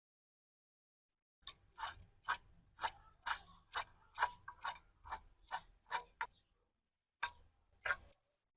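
Short scraping strokes on metal by hand, about two a second: a run of a dozen, a pause, then two more.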